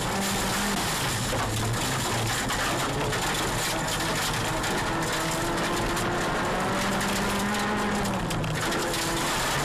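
Honda Civic Type R's four-cylinder engine heard from inside the cabin under hard driving, its pitch rising and falling with throttle and gear changes. Loose stones and grit tick against the underbody throughout.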